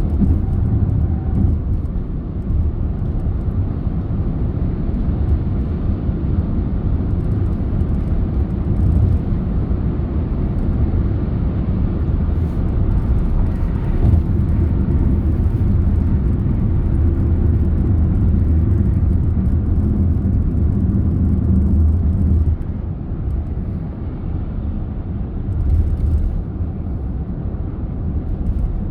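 Car on the move: a steady low rumble of road and engine noise, which eases off a little about three-quarters of the way through.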